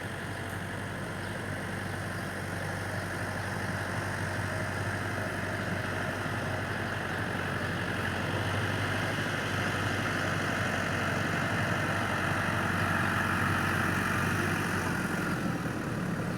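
Tractor engine running steadily at idle, growing slowly louder.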